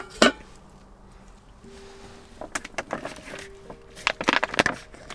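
Metal camp cookware being handled: a series of clinks and knocks, a few leaving a short ring.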